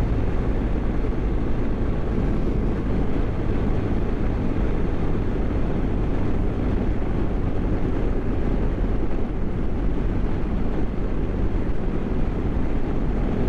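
BMW GS motorcycle riding at a steady road speed, its engine running under a constant rush of wind and road noise over the microphone.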